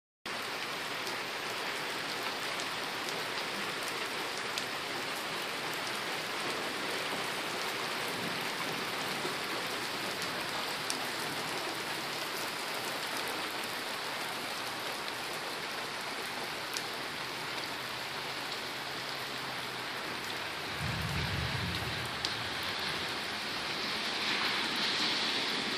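Steady rain falling, with scattered small drop ticks and a brief low rumble about three-quarters of the way through.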